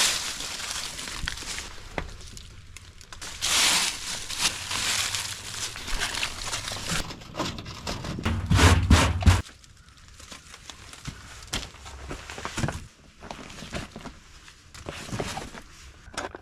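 Rustling, crinkling and light knocks of gear and debris being handled while tidying up a camp, with a low rumble about halfway through.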